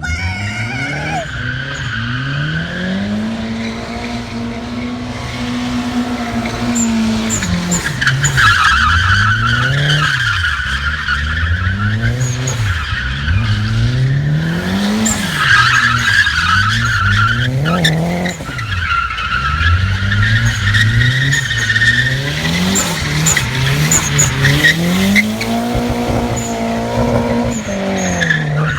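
Turbocharged Subaru flat-four engine revving hard during a drift, its pitch repeatedly climbing and dropping and twice held high for several seconds, with the rear tyres squealing as they spin and slide.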